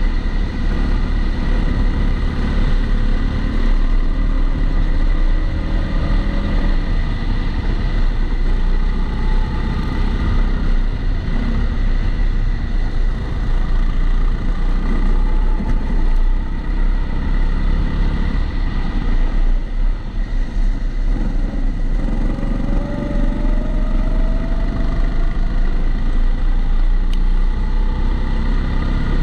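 Kart engine heard onboard through a camera's waterproof housing, revving up and down through the corners and rising in pitch under acceleration near the end. A steady high tone runs underneath.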